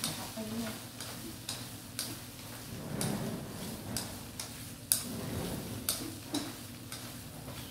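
A spatula or spoon clicking against a pan about twice a second while quail eggs are stir-fried in a fish-sauce glaze, over a faint steady sizzle.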